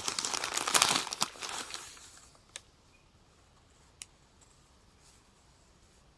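Wrapping crinkling and tearing as a small wrapped parcel of yarn is opened by hand, dense for about two seconds, followed by two light clicks.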